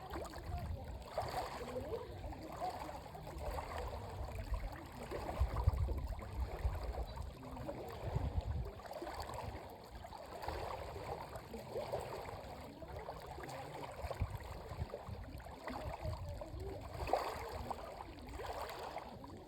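Water lapping and splashing close by, a steady crackle with irregular low rumbles throughout.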